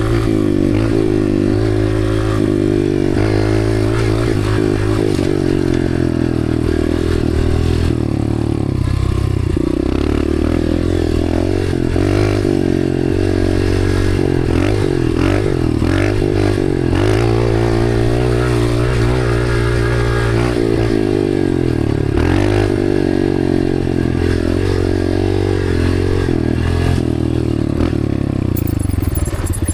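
Dirt bike engine running under load, its pitch rising and falling with the throttle as it is ridden, with a few short knocks and rattles from the bike.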